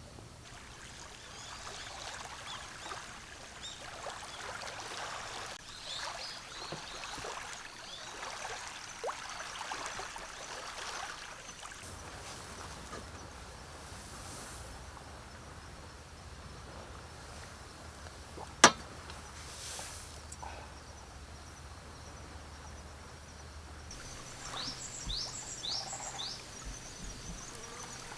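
Quiet outdoor ambience with scattered soft crackles and ticks, one sharp loud snap about two-thirds of the way through, and a few short high chirps near the end.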